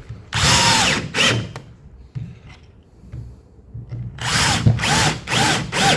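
Power drill run in short trigger bursts, its whine rising and falling in pitch with each burst: one longer burst near the start, then a quick run of about four bursts near the end.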